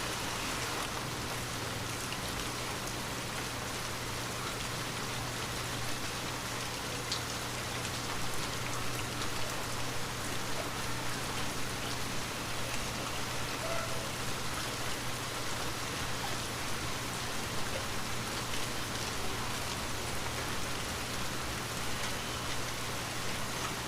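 Light rain falling steadily, a constant hiss with scattered individual drops ticking on surfaces.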